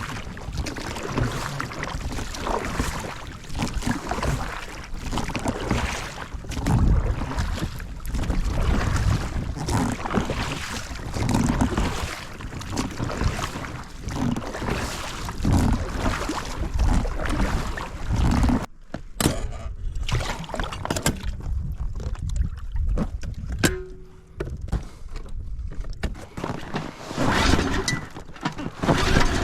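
Wind buffeting the microphone over the rush and splash of water, gusting unevenly, with a quieter stretch about two-thirds of the way through.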